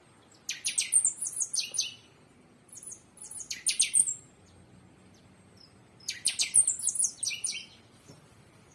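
A bird chirping in three short bursts of rapid, high-pitched notes, each a second or two long, with pauses between them.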